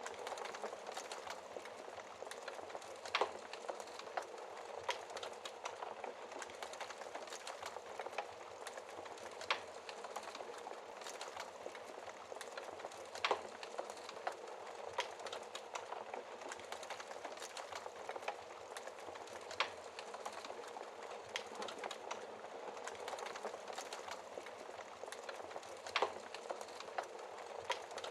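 Wood fire crackling in a fireplace: a steady hiss of small crackles with a louder sharp pop every few seconds.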